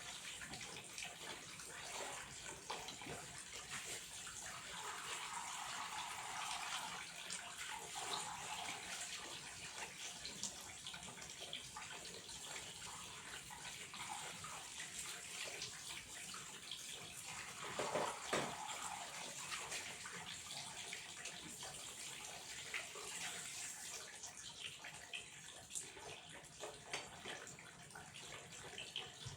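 Water flowing and splashing steadily, with a louder splash about eighteen seconds in.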